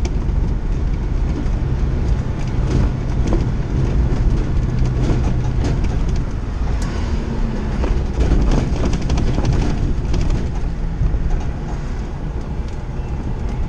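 Semi truck driving, heard from inside the cab: a steady low engine drone and road noise, with frequent rattles and clunks.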